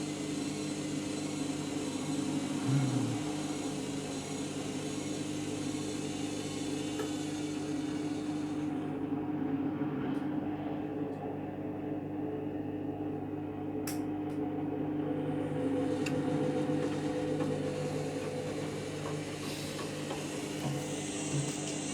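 Candy Grand'O Vita 7 kg washing machine spinning in its pre-wash cycle, the motor and drum humming steadily with several held tones. A higher hiss falls away for a few seconds in the middle and comes back near the end.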